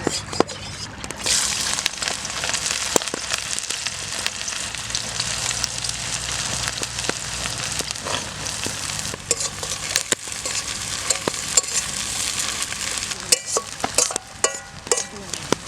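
Food sizzling as it fries in hot oil in a pan, stirred, with scattered clicks and scrapes of the stirring utensil against the pan and a few sharper scrapes near the end.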